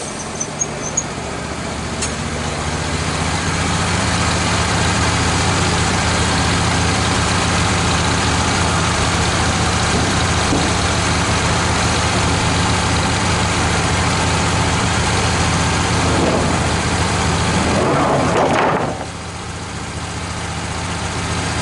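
Wood-Mizer LT15 bandsaw mill running steadily, its band blade sawing through a red oak log, with a louder cutting noise that builds over the first few seconds and stops abruptly just before 19 s as the cut ends, leaving the engine running.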